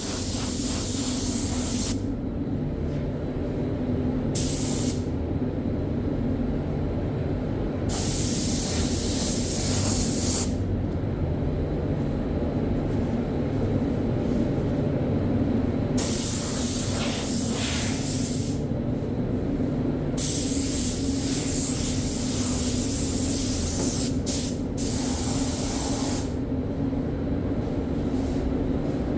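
Paint spray gun spraying primer in bursts of hiss, the trigger held for one to several seconds at a time with short pauses between, over a steady low hum.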